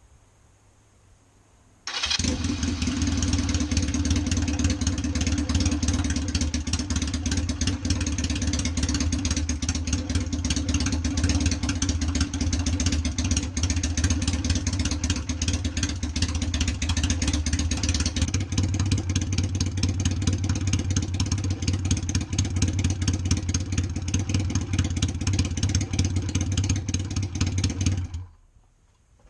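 Honda Rebel 250 motorcycle engine running through a freshly fabricated custom exhaust, a quite loud, meaty note held steady without revving. It cuts in suddenly about two seconds in and stops suddenly near the end.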